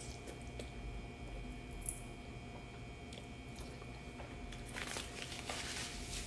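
A woman chewing a mouthful of creamy shrimp pasta, with soft wet mouth sounds and small clicks, a little busier about five seconds in. A faint steady high whine lies underneath.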